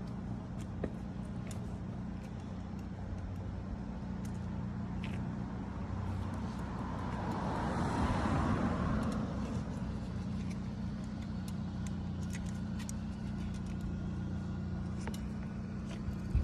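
A car passing by on a road: a broad rush that builds to its loudest about eight seconds in and then fades, over a steady low hum, with a few faint clicks.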